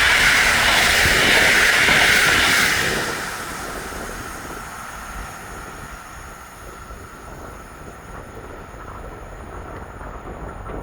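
A train running past on the line, loud for about three seconds, then fading as it moves away, leaving a quieter rumble.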